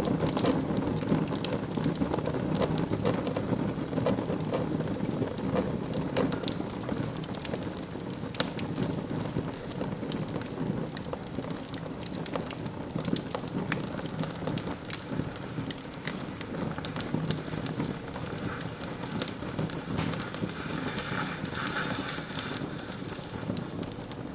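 Wood fire burning in a fireplace, crackling with many sharp, irregular pops over a steady low rush of flame.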